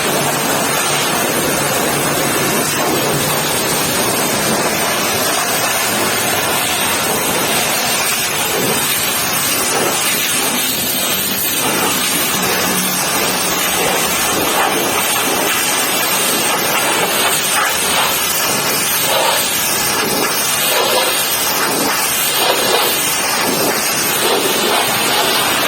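Pressure washer spraying water onto a truck, a steady loud hiss and spatter of water that shifts a little as the spray moves.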